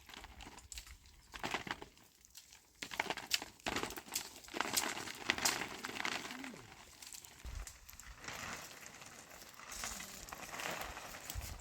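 Irregular crackling rustle with many sharp clicks, the sound of something being handled close by.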